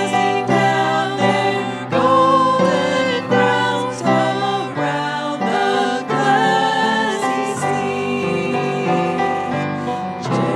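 A worship song: voices singing to instrumental accompaniment.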